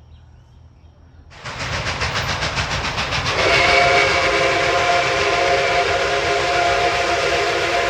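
Steam locomotive whistle, likely Nickel Plate Road No. 765's. A loud rush of steam starts suddenly about a second and a half in. About two seconds later the whistle's chord of several notes sounds over it and holds steady to the end.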